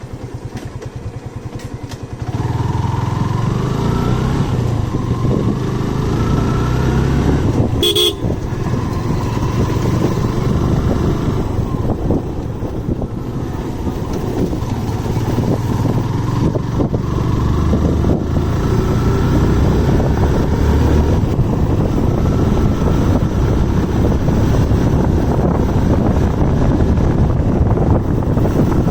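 Motorcycle engine running under way, growing louder about two seconds in as it picks up speed, its pitch rising a few times as it accelerates. A short horn beep sounds about eight seconds in.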